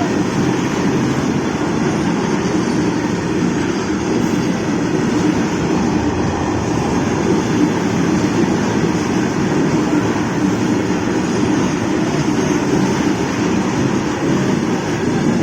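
Vande Bharat Express train running, a loud steady rumble and rush of rail noise.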